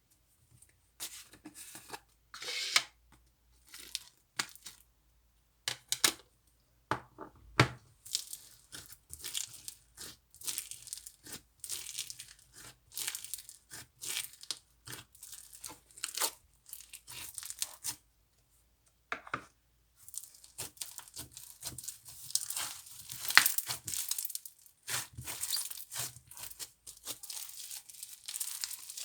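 Hands squishing and stretching a crunchy slime mixed with Corn Pops cereal, giving dense, irregular crackling and popping. The crackling pauses briefly about two-thirds of the way through, then picks up again.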